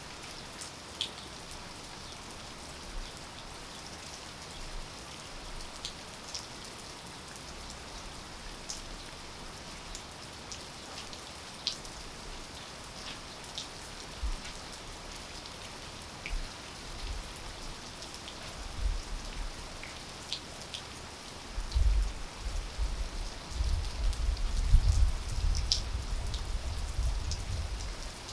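Steady rain falling, with scattered close drops ticking sharply. From about 18 s, and more strongly from about 22 s, an uneven low rumble comes and goes under the rain.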